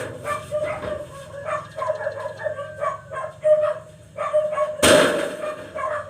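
A dog barking in a rapid run of short barks, with a single loud knock about five seconds in.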